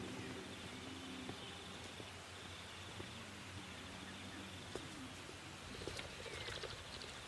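Faint outdoor ambience with a thin, steady high tone and a short run of bird chirps about six seconds in.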